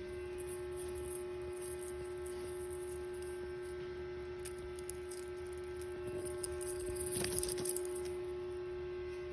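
A steady electrical hum, with faint rustling and a few light taps that grow a little louder about seven seconds in.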